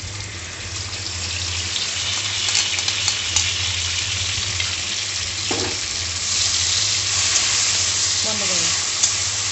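Spice paste frying in hot oil in a metal karai (wok), sizzling steadily and growing louder after the first second, as it is scraped in and stirred with a steel spoon. A steady low hum runs underneath.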